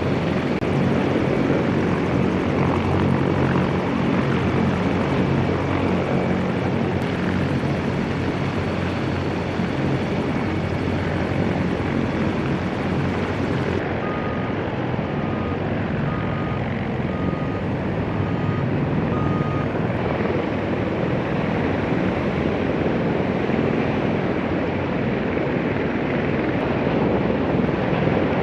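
CH-53E Super Stallion heavy-lift helicopter running, its rotors and engines sounding steadily. About halfway through, six short, evenly spaced beeps sound over it.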